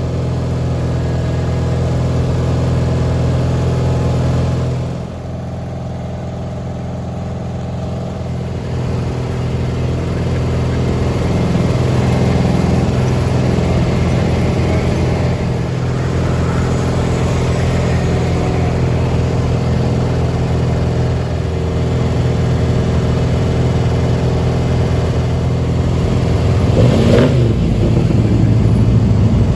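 Garden tractor engine running steadily, dipping in level about five seconds in and then picking up again. A short wavering higher-pitched sound comes in near the end.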